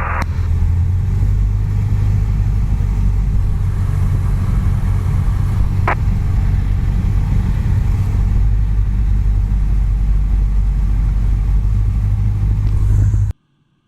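Cessna 172's engine and propeller giving a steady low drone on final approach to land. There is one brief click about six seconds in, and the sound cuts out abruptly near the end.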